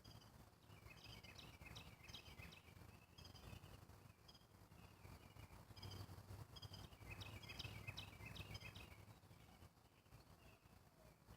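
Faint bird chirping: two runs of rapid high chirps, one about a second in and one around seven seconds in, with single calls scattered between.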